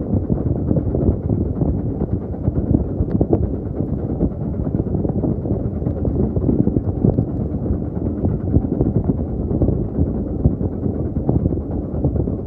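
Steady low rumble of a moving railway carriage, with wind buffeting the microphone and a few faint clicks.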